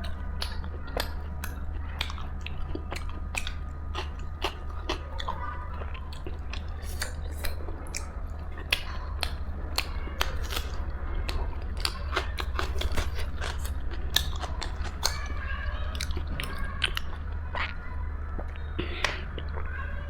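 Close-up mukbang eating sounds: a person biting and chewing fried veg momos, with frequent wet mouth clicks and small crunches at an irregular pace. A steady low hum runs underneath.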